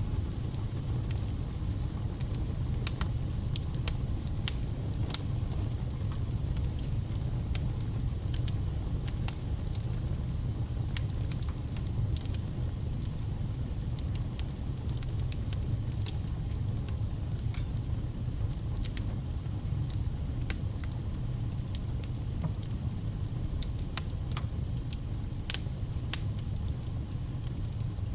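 Wood fire burning, with irregular sharp crackles and pops of the logs over a steady low rumble of the flames.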